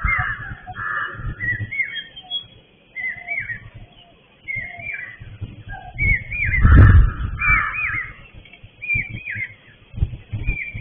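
Birds calling: short whistled notes that rise and fall, repeated about once a second, with fainter lower notes beneath. A louder low rumble comes in about six seconds in and lasts about two seconds.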